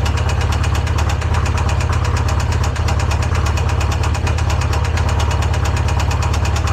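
Polaris RZR engine running steadily at a constant speed on Lucas oil, after losing oil pressure and seizing; the owner believes a connecting rod bearing welded itself to the crank.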